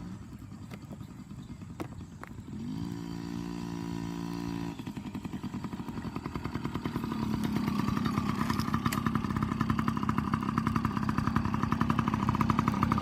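Dirt bike engine running, with fast, even firing pulses, getting louder from about seven seconds in.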